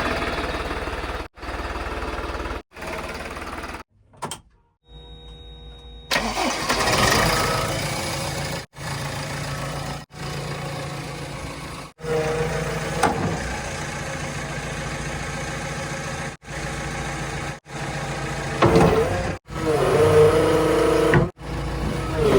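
Heavy diesel engine running with some revving, in short clips spliced together, so the sound drops out briefly every second or two.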